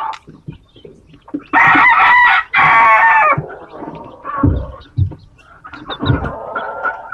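A rooster crowing once, loudly, in two drawn-out parts starting about a second and a half in. Softer clucking and a few low thumps follow.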